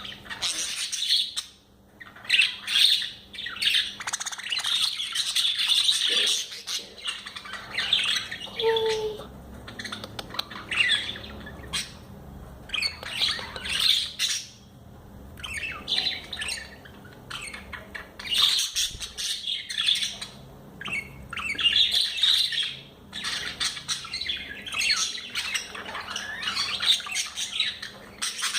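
Budgerigars chattering and chirping: rapid high warbles and squawks in bursts, with short pauses between them.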